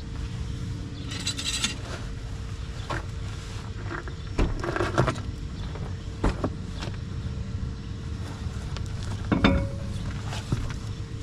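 Scattered knocks and metallic clinks of a car's tire and wheel being handled and fitted back onto the front hub, over a steady low rumble.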